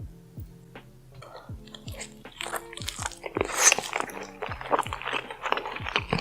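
Close-miked mukbang eating sounds: crunchy bites and wet chewing of food drowned in cheese sauce, starting about a second in and growing louder. Under them runs background music with a steady beat about three times a second.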